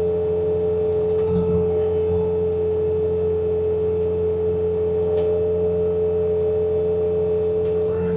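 Bobcat T66 compact track loader running with its snowblower attachment: a steady high whine over a low engine drone.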